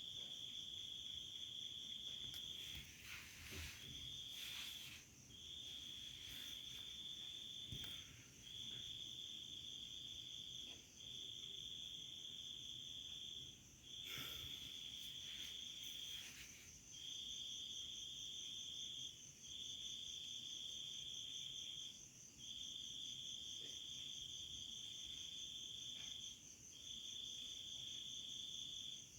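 Insect trilling: long, steady, high-pitched trills broken by short pauses every one to three seconds, with a few faint clicks in the first half.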